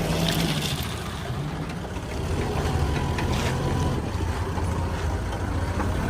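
Heavy diesel engine of earthmoving machinery running steadily, easing off about a second in and picking up again around two seconds.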